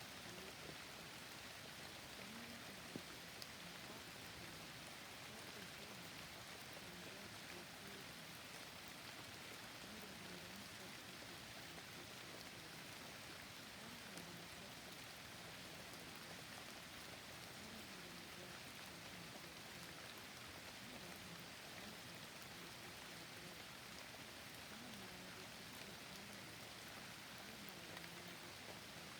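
Soft, steady rainfall, with a barely audible voice of subliminal messages mixed low beneath it.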